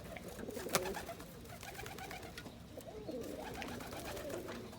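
Domestic pigeons cooing, their low wavering calls overlapping, with one sharp tap less than a second in.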